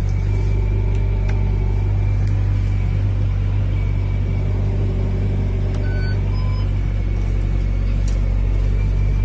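Steady low rumble of a car engine running at an even speed, with no revving. A few brief high electronic tones come about six seconds in.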